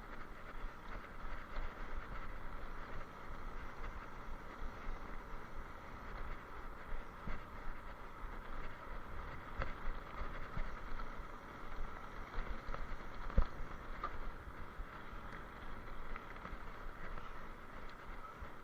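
Steady wind and rolling noise from a moving ride over rough ground, with scattered knocks and bumps, the loudest about 13 seconds in.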